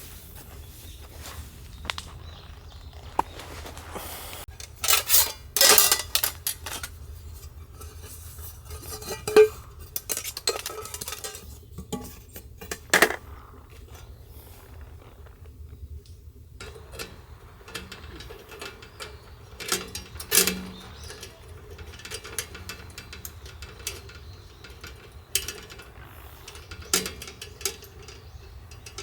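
Metal cookware and utensils clinking and knocking as they are handled, in scattered irregular clatters; the loudest come about five to six seconds in, with single sharp knocks at about nine and thirteen seconds.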